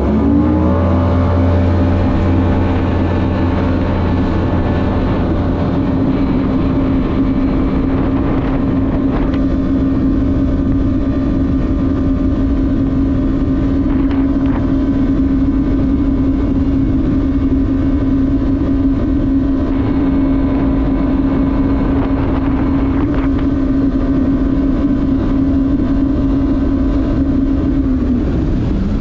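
Jet ski engine opening up to full throttle, its pitch climbing quickly in the first second, then running steadily at top speed. It eases off and the pitch drops near the end.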